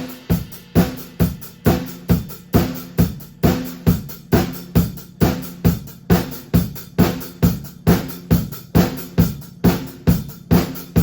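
A drum kit played solo with no backing track: a steady beat of bass drum and snare hits, about two to three strokes a second, with hi-hat and cymbals over them.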